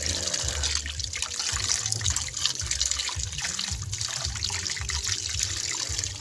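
Water sloshing and splashing in irregular bursts as cassava roots are scrubbed by hand in water.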